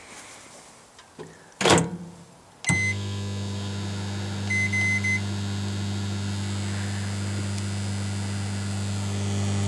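A thump, then a click and a beep as a microwave oven switches on, followed by its steady mains-transformer hum. A few short keypad beeps sound about five seconds in while the oven keeps running.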